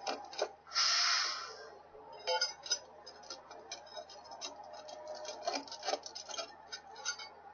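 Steel tire chain on a big-rig wheel clinking and rattling as its slack is pulled out with a crowbar. There is a run of light metallic ticks and a louder scrape about a second in.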